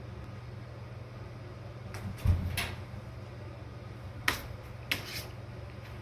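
A loud thump with a short scuffing tail, then two brief sharp knocks, over a steady low hum.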